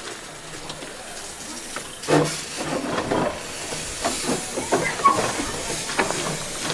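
Steam locomotive hissing steam, a steady high hiss with scattered short knocks and clatter from about two seconds in.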